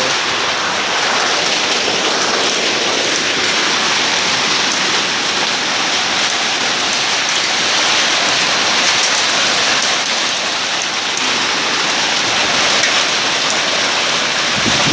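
A heavy hailstorm downpour, rain and hailstones pelting down hard in a steady, dense hiss with a fine patter of impacts.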